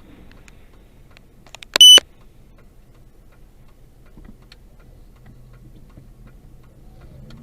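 A single short, loud, high-pitched electronic beep about two seconds in, over a faint low hum with light scattered ticking.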